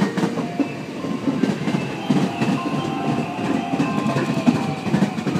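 A JR West 521 series electric multiple unit, two two-car sets coupled, running along the platform, its wheels clattering over the rail joints steadily.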